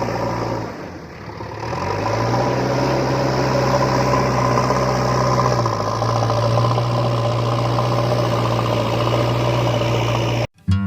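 Small motor running steadily with a low hum. It drops away briefly about a second in, picks up again, and cuts off suddenly near the end.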